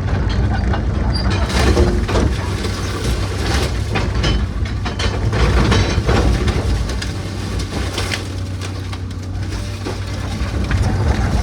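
A heavy machine's engine running steadily while old wooden framing cracks, splinters and crunches as it is torn apart in demolition.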